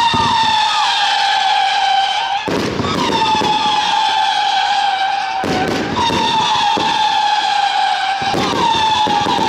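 Pyrocentury Erotica fireworks battery firing whistling shots. Each loud whistle falls slowly in pitch over two to three seconds, and a new whistle with a sharp launch bang takes over about every three seconds.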